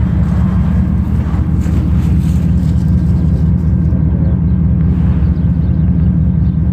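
A steady low mechanical rumble, like an engine running.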